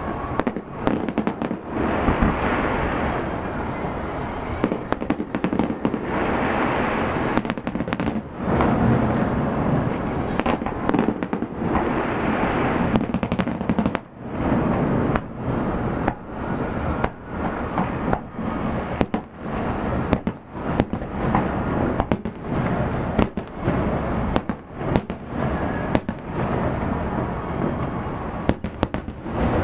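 Aerial fireworks display, with shells bursting one after another in quick, irregular succession: many sharp bangs over a continuous rumble.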